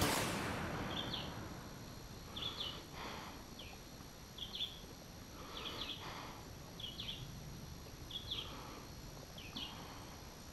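A bird calling over and over, one short chirp about every second and a half, against a quiet outdoor background. A music track fades out at the very start.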